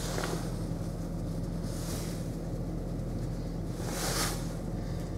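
Cabin sound of a 2017 Ford Escape idling while it warms up after a cold start in freezing air: a steady low engine hum under the even rush of the heater blower running for the defrost. A brief louder hiss comes about four seconds in.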